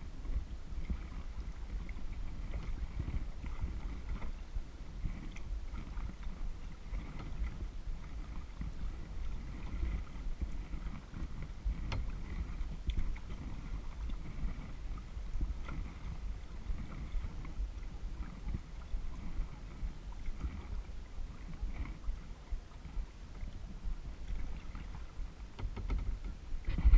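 Kayak paddling on a lake: paddle strokes and water splashing and lapping against the hull, over a steady low rumble, with a few small clicks.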